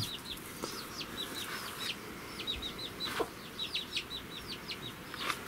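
Birds chirping: many short, high calls repeating several times a second, with a few light clicks among them.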